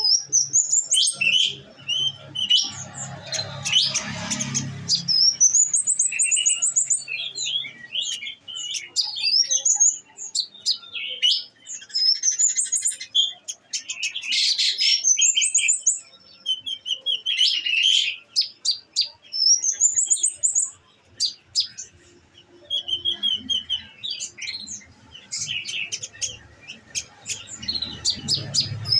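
Olive-backed sunbird (konin) singing: a long run of rapid high chirps, trills and rising phrases, broken by short pauses.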